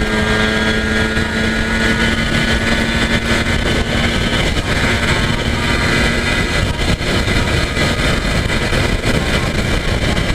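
Yamaha TZR250 (1KT) two-stroke parallel-twin motorcycle running at steady highway cruising speed, its engine under a heavy rush of wind and road noise. A steady low hum fades out about halfway through.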